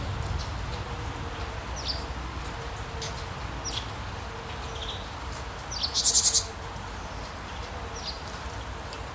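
Rainforest ambience: a steady low rumble and hiss under a faint held hum, with short, high, falling bird chirps every second or so. About six seconds in comes a loud, rapid, high trill lasting about half a second.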